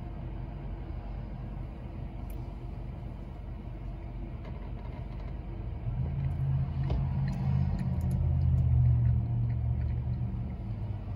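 Low vehicle rumble heard from inside a parked car, swelling louder about six seconds in and easing off near the end, with a few faint clicks.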